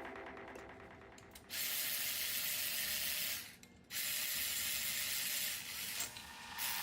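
Two hissing blasts of pressurized spray, each just under two seconds long, with a short break between them.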